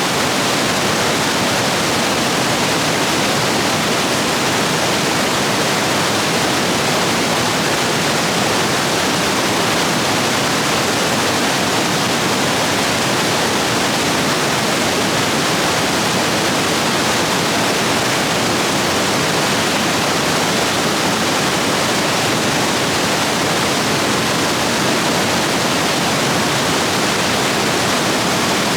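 Rapids of a stream swollen by heavy rain: water rushing and splashing over rocks in a steady, loud, unbroken roar.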